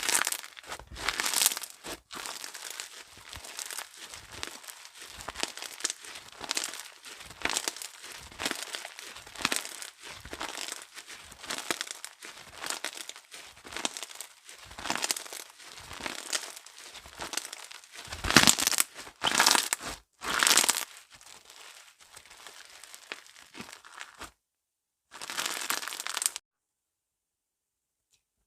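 Slime being squeezed, stretched and pressed by hand: a continuous run of short crackling, crinkly squishes that stops about two seconds before the end.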